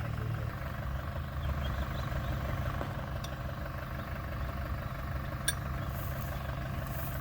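Four-wheel-drive's engine idling steadily, with a single sharp click about five and a half seconds in.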